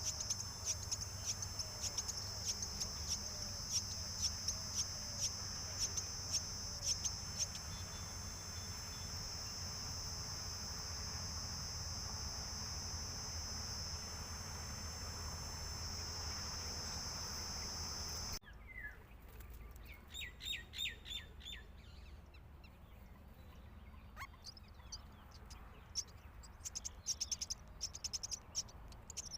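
Myna chick begging with repeated short, shrill calls, about one or two a second at first, over a steady high drone. A little past halfway the drone cuts off suddenly; a few calls follow, then quick runs of chirps near the end.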